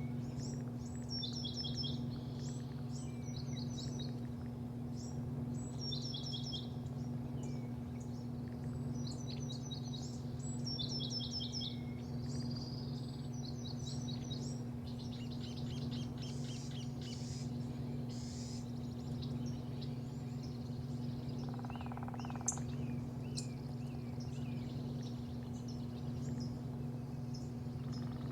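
Small birds chirping in quick series of short, high, falling notes, busiest in the first half and sparser later, over a steady low machine hum.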